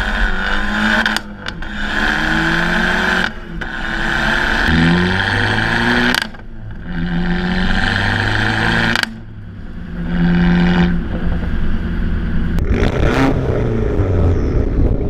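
Abarth 500-series 1.4 turbo four-cylinder through a THREEHUNDRED racing muffler, accelerating hard through the gears: the pitch climbs in each gear and drops at four upshifts. Some shifts bring a sharp crack from the exhaust, the upshift pop this muffler is built to bring out.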